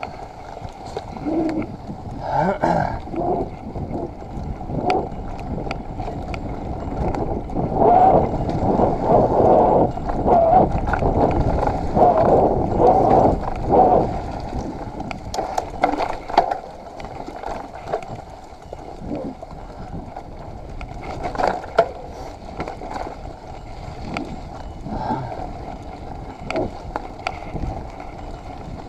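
Mountain bike being ridden along a wet, muddy forest trail: tyre noise and the rattle of the bike, with knocks over bumps, loudest and busiest in the middle stretch.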